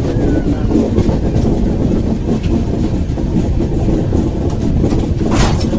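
Express passenger train's coaches running on the track, a steady rumble of wheels on rails with rushing air, heard from an open coach doorway. A short sharp hiss near the end.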